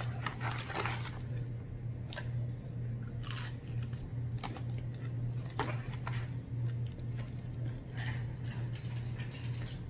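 Close-up eating sounds of a person biting into and chewing a breaded fried catfish fillet, with scattered crisp crunches. A steady low hum runs underneath.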